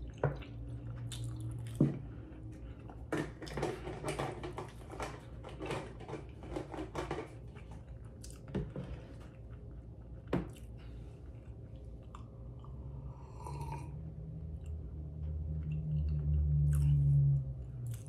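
Close-miked chewing of a person eating breakfast food, with many short wet mouth clicks and smacks, thickest in the first half. Near the end a steady low hum rises for a few seconds and is the loudest sound.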